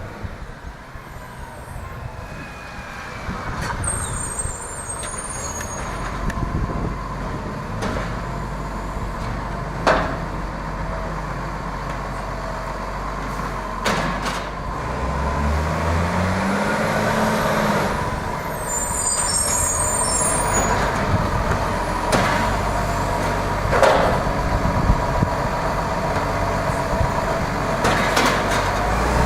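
Garbage truck engine running, revving up once about halfway through. Short high hisses and several sharp bangs and knocks sound over it.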